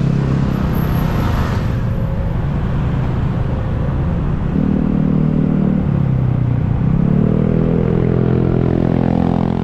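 A road vehicle's engine running in traffic, its pitch dipping and then climbing over the last few seconds as it revs, over a steady road rumble.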